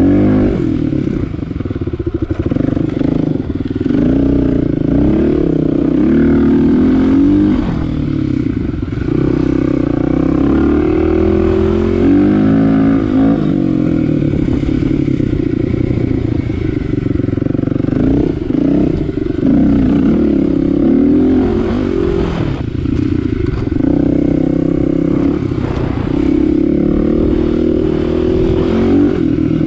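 Kawasaki KLX250's single-cylinder four-stroke engine running while ridden, its pitch rising and falling again and again with throttle and gear changes. Occasional knocks come from the bike over the rough dirt trail.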